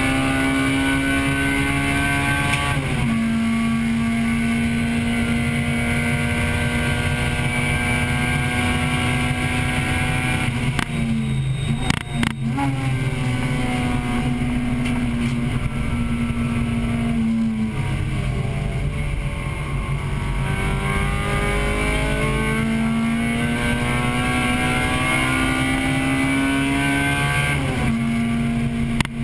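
Acura Integra Type-R's 1.8-litre VTEC four-cylinder heard from inside the car at racing pace. The engine note climbs steadily, then drops sharply at each gear change, about four times. There are a few sharp clicks about twelve seconds in.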